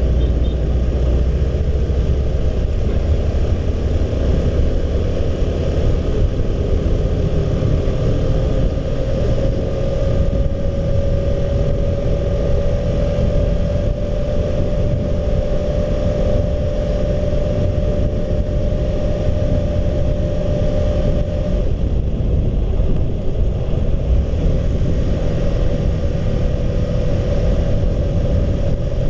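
Honda CB150R's single-cylinder engine running at a steady cruising speed under a heavy rumble of wind on the microphone. The engine note rises slightly about ten seconds in and fades briefly past twenty seconds before returning.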